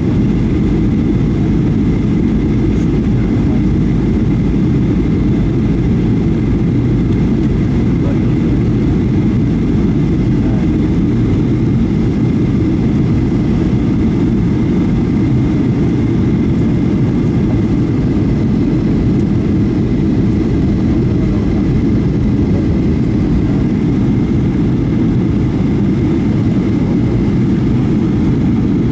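Steady, loud noise of a jet airliner heard from inside the cabin in flight: a constant low rumble of engines and airflow, with a faint high whine held throughout.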